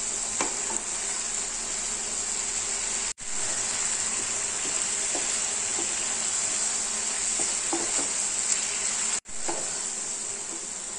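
Grated pumpkin halwa sizzling in a frying pan while a wooden spatula stirs and scrapes it: a steady frying hiss with soft scraping strokes. The mixture has cooked down nearly dry and is just about ready. The hiss cuts out for an instant twice, about 3 s and 9 s in.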